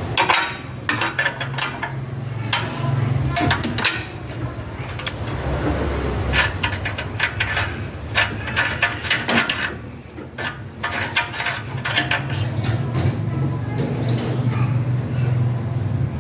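Irregular metal clinks and taps, like tools or metal parts being handled, over a steady low engine hum.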